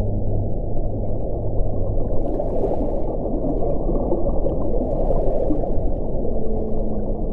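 Steady low, rushing wind, with a faint low moaning tone that fades out about two seconds in and two light gusts of higher hiss around the middle.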